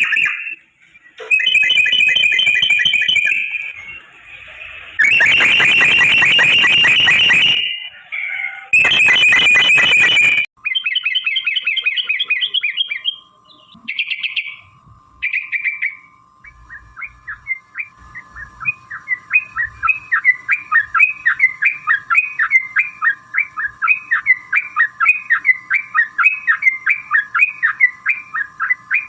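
Yellow-vented bulbul (trucukan) calling. Loud, harsh chattering bursts come in the first ten seconds, then a few shorter calls. From about halfway, a long, fast run of repeated short notes, several a second, plays over a faint steady tone.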